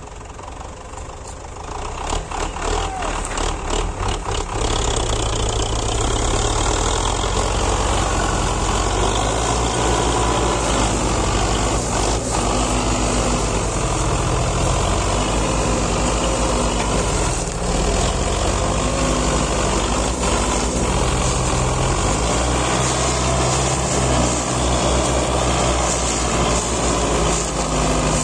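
Belarus 510 tractor's diesel engine running under load with a sugarcane trailer. It grows louder over the first few seconds with some scattered clicks, then runs steadily, its pitch rising and falling a little.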